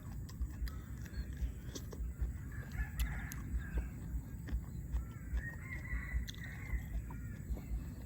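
A person chewing food with crisp raw vegetables, making soft thumps and sharp little crunching clicks. A bird calls faintly in the background twice, about three seconds in and again around six seconds.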